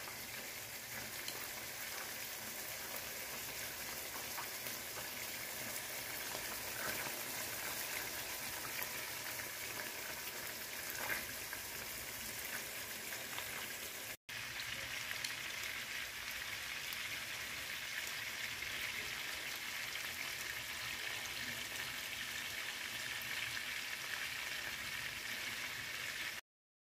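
Pork meatballs frying in a nonstick pan: a steady sizzle, broken by a momentary gap about halfway and cutting off abruptly near the end.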